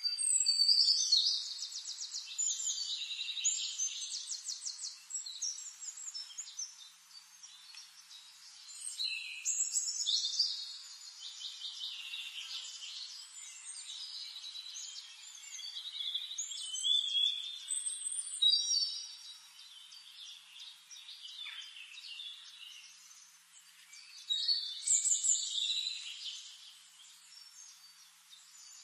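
Songbirds singing: several phrases of rapid, high-pitched trills and chirps, with quieter gaps between them.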